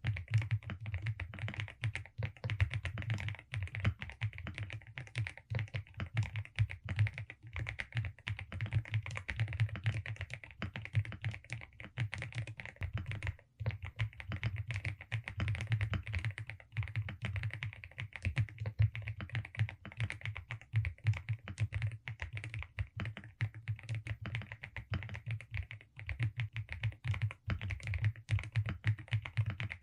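Velocifire RX870 mechanical keyboard with DSA keycaps being typed on steadily in a fast, continuous run of keystrokes, with one short pause about halfway.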